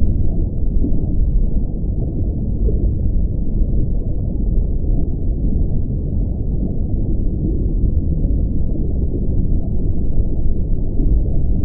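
Muffled, steady rush and rumble of water heard through a submerged camera's waterproof housing, with everything above a low band cut off.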